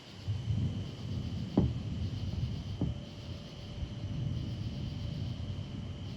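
Gusty storm wind buffeting the microphone: a low, rumbling, fluctuating noise that sets in suddenly just after the start, with two sharp pops near the beginning. A steady high insect chirring continues underneath.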